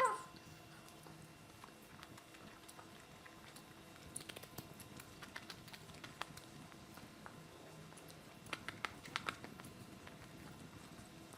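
Faint close-up eating sounds: chewing with small wet clicks and smacks, coming in short clusters about four seconds in and again near nine seconds.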